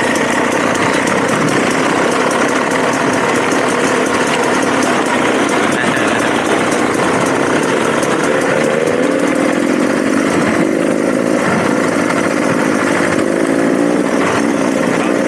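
Dirt bike engine running under a rider, its pitch rising and falling with the throttle in the second half.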